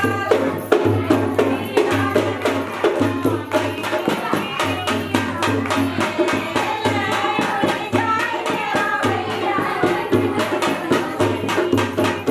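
Hindi dehati folk song: singing over fast, steady percussion.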